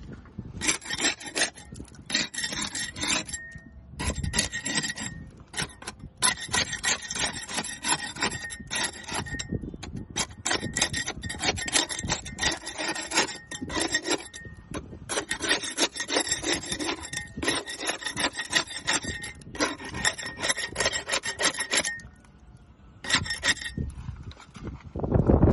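Barnacles being scraped off a boat hull: rapid rasping strokes in runs of a few seconds, with short pauses between runs and a longer break about 22 seconds in.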